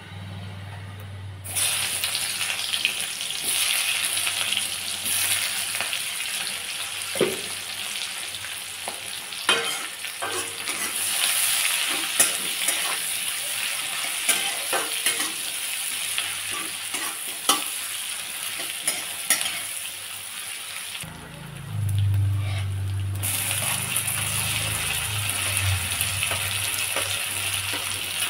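Sliced onions sizzling in hot oil in an aluminium kadai, the hiss starting a moment in as they hit the oil, with a spatula scraping and clicking against the pan. The sizzle drops out briefly about three-quarters of the way through.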